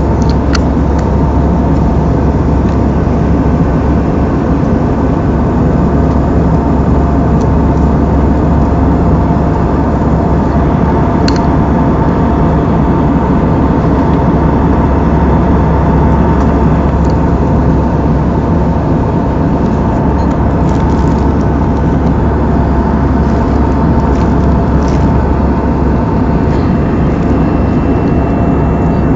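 Steady cabin noise of a jet airliner in cruise: engine and airflow noise, heaviest in the low end, with a few faint steady hums and a handful of faint ticks.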